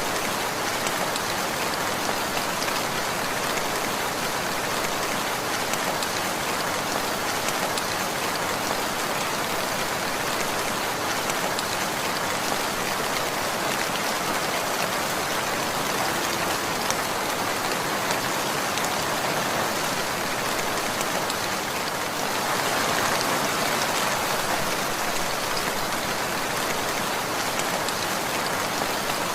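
Steady rainfall, a dense even patter of raindrops on a surface, swelling slightly about two-thirds of the way through.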